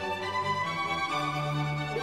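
Background music with sustained bowed-string notes, a held low note shifting pitch about half a second and a second in.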